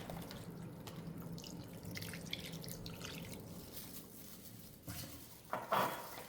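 Water dripping and trickling in a kitchen sink, with scattered small ticks and a louder splash-like noise near the end, over a faint steady hum.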